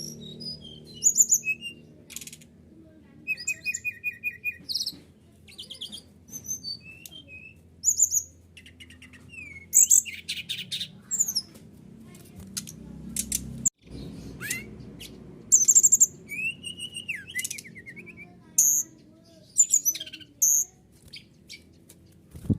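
SRDC (sikatan rimba dada coklat, brown-chested jungle flycatcher) song: a varied run of short whistles, chirps and rapid trills in phrases with short pauses between them. The sound cuts out for an instant about halfway through, with a faint low hum underneath.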